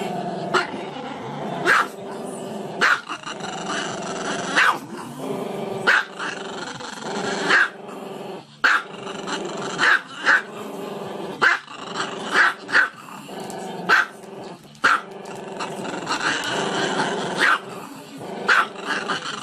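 A dog growling continuously, broken by sharp, loud barks every second or so, about fifteen in all.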